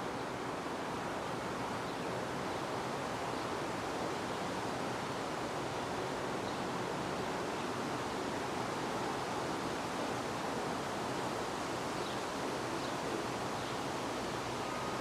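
Steady wind, a constant rushing noise with no gusts or breaks.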